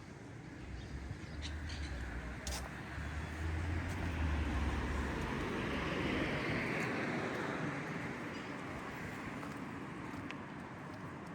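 A vehicle driving past on the street: a low engine hum builds up, then tyre and road noise swells to a peak a little past the middle and slowly fades away.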